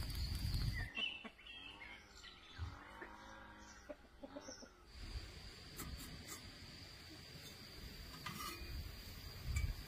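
Birds calling: one longer call with a wavering pitch from about a second and a half to four and a half seconds in, then a few short chirps.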